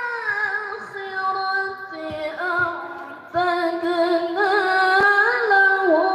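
Melodic Quran recitation (tilawah) in a high voice: long held notes with winding ornaments, a brief pause for breath about three seconds in, then the line continues on a higher note.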